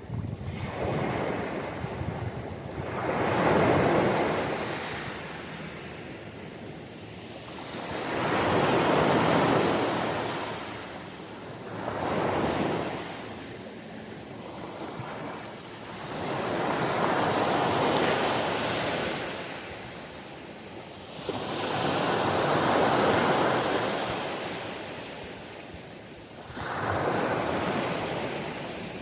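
Ocean waves breaking and washing ashore, each surge swelling and fading away, about six in turn at intervals of roughly five seconds.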